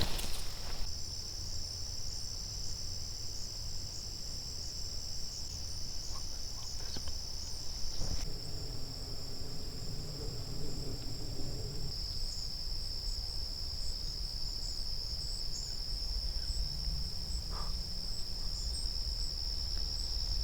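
A steady high-pitched insect chorus of crickets or katydids that runs on without a break and shifts slightly in pitch a few times. A low rumble lies underneath it.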